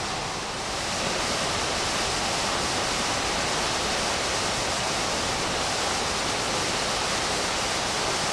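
Waterfall pouring: a steady rushing hiss of falling water that dips briefly about half a second in.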